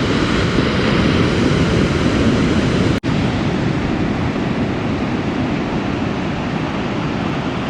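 Ocean surf and wind noise on the microphone, a steady rushing that drops out for an instant about three seconds in.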